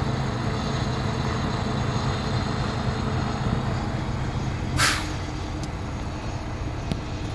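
Vehicle engines idling in stopped traffic, a steady low hum, with one short hiss almost five seconds in.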